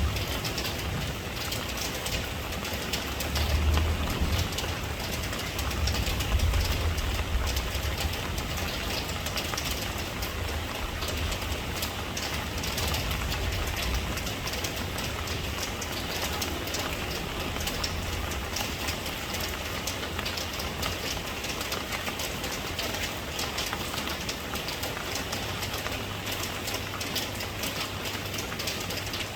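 Steady rain falling, dense patter of many drops, with a low rumble underneath that is strongest in the first half and then eases.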